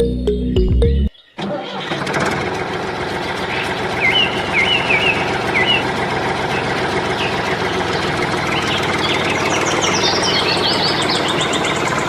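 Music cuts off. After a brief gap an engine starts and runs steadily, with a few short high chirps over it.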